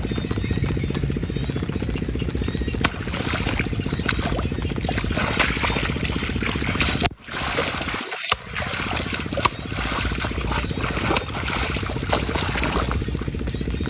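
Water splashing and sloshing, with scattered sharp splashes over a steady low buzz. The sound drops out briefly about halfway through.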